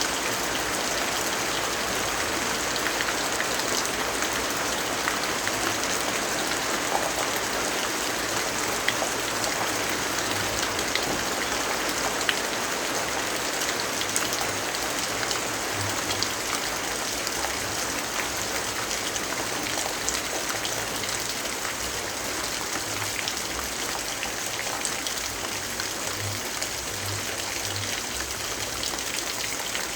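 Steady rainfall: an even, dense hiss of rain with scattered light drop ticks.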